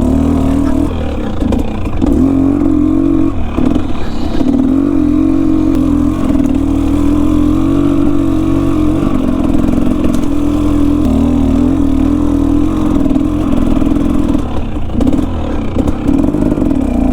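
Enduro dirt bike engine running under throttle on a trail, its pitch holding steady with brief drops where the throttle is rolled off, about a second in, around three and a half seconds, near nine seconds and near the end.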